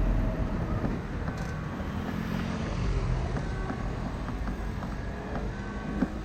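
Urban street traffic heard from a bicycle: a steady din of passing vehicles with a strong low rumble. Short high tones come and go over it.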